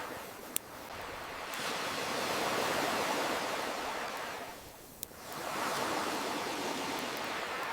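Ocean waves washing in, swelling and ebbing twice, with two sharp pops from a crackling campfire, one just after the start and one about five seconds in.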